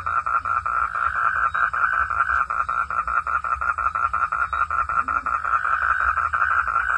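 Frogs calling in a steady chorus, a fast, even run of pulsed notes at about seven a second.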